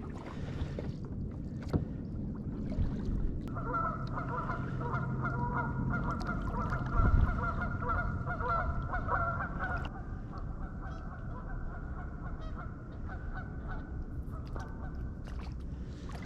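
Geese honking: a continuous run of honks starting about three seconds in, growing fainter after about ten seconds and stopping near the end.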